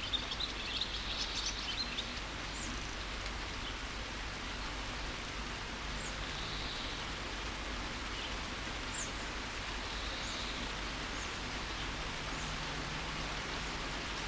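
Steady rain with birds chirping over it: a quick flurry of high chirps in the first two seconds, then single short calls scattered through the rest.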